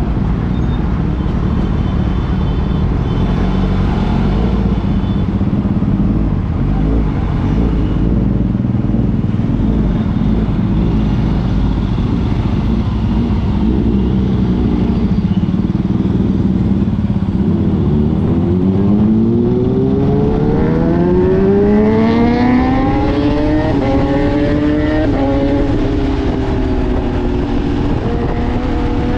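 Motorcycle riding along with steady wind and road noise. About two-thirds of the way in, an engine accelerates hard, its pitch climbing and stepping up through several gear changes.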